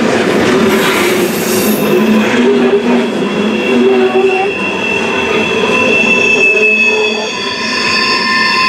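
Freight train of open-top hopper cars rolling past, the wheels and cars clattering and rattling over the rails, with high-pitched steel wheel squeal that grows stronger in the second half.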